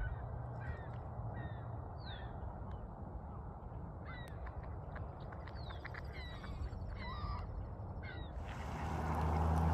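A flock of seagulls calling, with many short, overlapping calls. Near the end a louder, steady rushing noise sets in.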